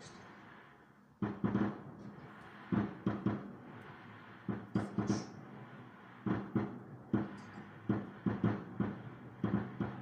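Fireworks bursting overhead: sharp bangs in quick clusters of two to four, each with a short echo, coming more often toward the end.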